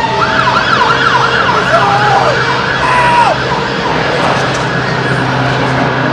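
Emergency vehicle sirens: a fast yelping siren sweeping up and down about four times a second, overlapped by a slower rising-and-falling siren. After about three seconds the sirens fade into steady background noise with a low hum underneath.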